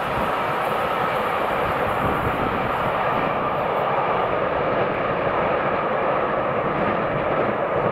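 Steam-hauled passenger train running through a station at speed, its carriages passing in a steady rumbling rush of wheels on rail.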